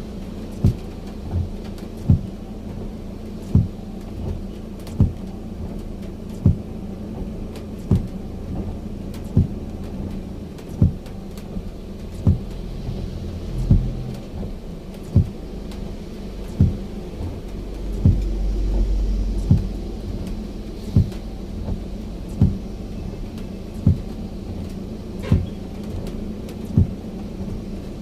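Evenly spaced low thumps, about one every second and a half, over a steady low hum, with a stronger low rumble for a couple of seconds past the middle.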